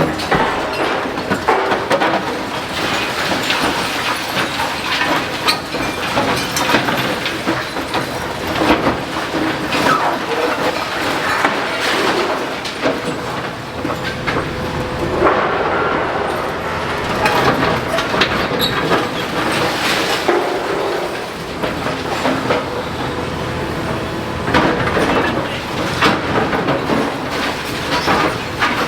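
Demolition excavator breaking down a brick building: continuous clattering and crunching of masonry and rubble, packed with knocks and scrapes, over a faint steady machine tone.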